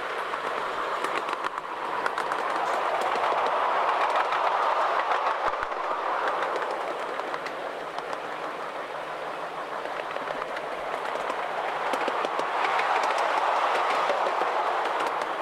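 Miniature railway train running along the track, its wheels rumbling on the rails with scattered clicks over the rail joints. The sound swells and fades twice.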